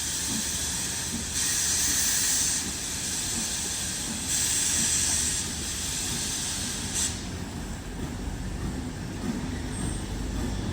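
NSW 35 class steam locomotive 3526 hissing steam in repeated bursts about a second long, roughly every three seconds, stopping sharply about seven seconds in. A low rumble continues underneath.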